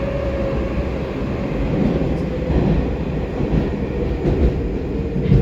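Running noise of a Baltiets metro train heard from inside the car while it travels through the tunnel: a steady rumble with occasional wheel knocks. A faint whine slowly drops in pitch, and a heavier knock comes right at the end.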